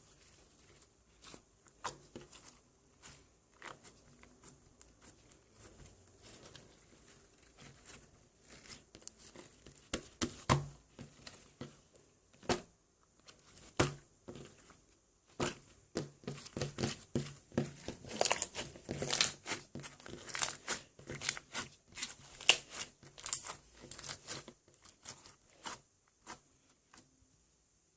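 Close handling noises: crinkling and tearing sounds with many sharp clicks, sparse at first and getting busier and louder about halfway through, then stopping near the end.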